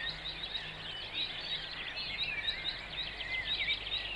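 Several birds chirping and singing, a quick run of short calls and warbles, over a steady background hiss.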